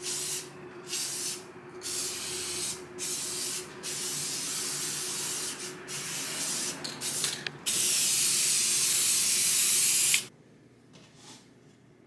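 Paint being sprayed in repeated hissing bursts, several short passes followed by one longer, louder spray of about two and a half seconds that stops abruptly.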